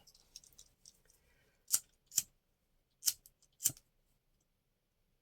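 Scissors snipping paper: four short, sharp snips in two pairs, after some faint paper rustling.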